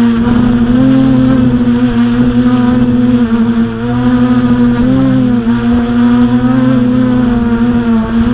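Quadcopter motors and propellers droning with a steady, whining pitch that wavers up and down slightly as the throttle changes.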